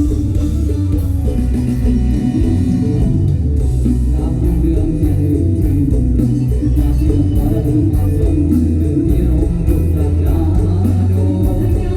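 Molam band music playing steadily, with a heavy bass line, plucked guitar and a singing voice.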